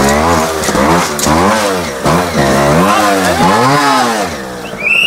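Trials motorcycle engine blipped repeatedly, revving up and dropping back about five times, as the rider works the throttle through the section. A short high whistle-like tone comes near the end.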